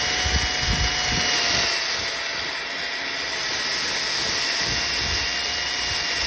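Handheld electric sanding or polishing machine running steadily at speed on a vehicle's painted panel, its motor whine holding an even pitch with a dense hiss over it.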